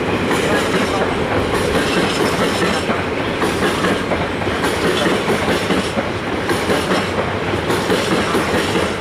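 A train passing at track side, its wheels clattering steadily over the rails, loud and unbroken throughout.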